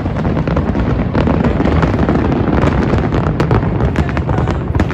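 Aerial fireworks going off in a dense, continuous barrage: deep booms overlapping with many sharp pops and crackles every second.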